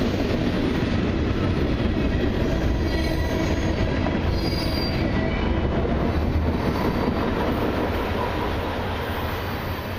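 Freight cars rolling past on the rails, a steady rumble of wheels with a faint high wheel squeal about four seconds in. The sound fades away over the last few seconds as the end of the train passes.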